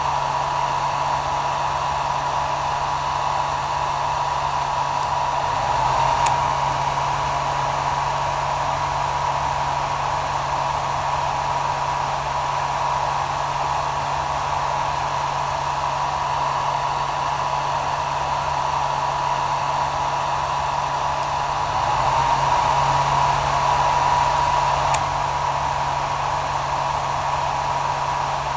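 Hair dryer running steadily, a continuous blowing noise with a steady whine near 1 kHz and a low hum. It swells slightly twice, about six seconds in and again around twenty-two to twenty-five seconds.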